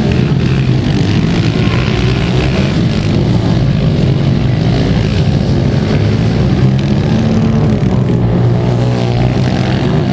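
Pit bike engines running hard in a race, a loud, steady engine note that holds without breaks.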